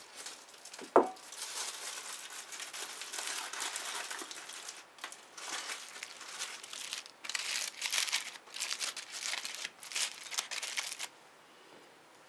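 A single sharp knock about a second in, then repeated crinkling and crumpling of a thin wrapping being handled, coming in bursts and stopping suddenly near the end.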